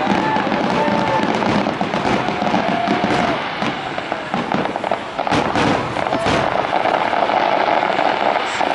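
Fireworks grand finale: a dense, continuous barrage of bursts and crackling shells with no gaps.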